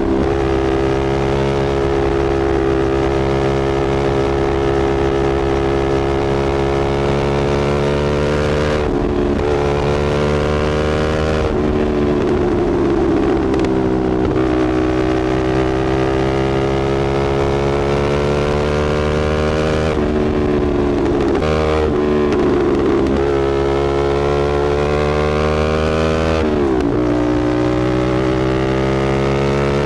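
Motorcycle engine running through a slip-on aftermarket AR exhaust, its pitch slowly climbing and then dropping several times as the engine speed rises and falls.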